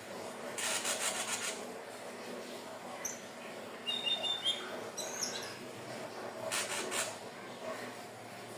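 Sikatan ninon (indigo flycatcher) calling: short, high, thin whistled notes, some sliding and a couple held level, with a harsh buzzy rattle twice, once near the start and again near the end.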